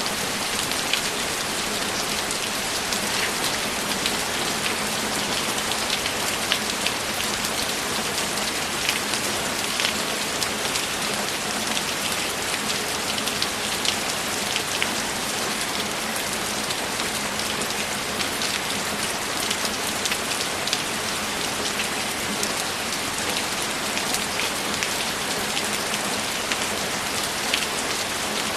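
Steady rain: an even hiss with many sharp ticks of single drops landing close by.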